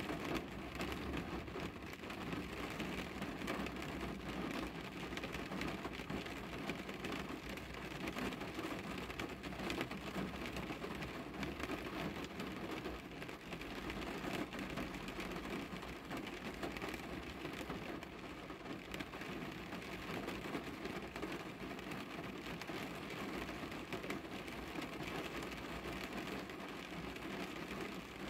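Rain falling on a car's window glass and body, heard from inside the cabin: a steady wash of rain with individual drops tapping on the glass, over a low steady rumble.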